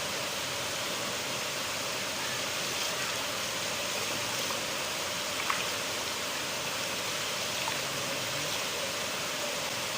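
River water flowing steadily, a continuous rushing noise with a few faint brief splashes.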